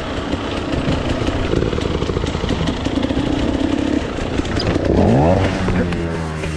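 Dirt bike engine running, then revving up about five seconds in, its pitch rising quickly before settling.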